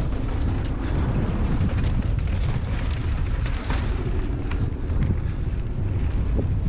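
Wind buffeting the microphone of a moving bicycle on a rough trail, a steady low rumble with scattered small clicks and rattles.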